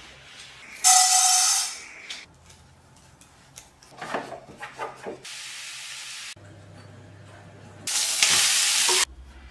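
Short kitchen sounds cut one after another: a loud hiss with a steady tone in it about a second in, a few clicks and clatter midway, and a steady hiss. Near the end comes the loudest part, about a second of sizzling as grated beetroot is tipped into hot oil in a steel frying pan.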